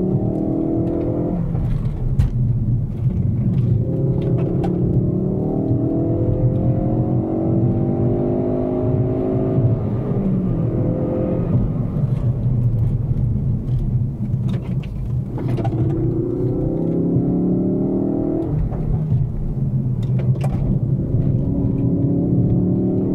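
Ford Focus RS engine heard from inside the cabin, driven hard on a track. The engine note climbs in pitch in several long runs, each ending in a sudden drop, about five times.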